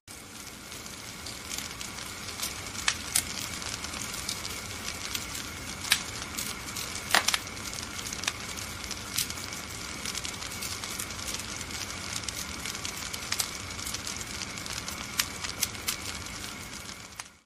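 Wood fire crackling: frequent sharp pops and snaps over a steady hiss.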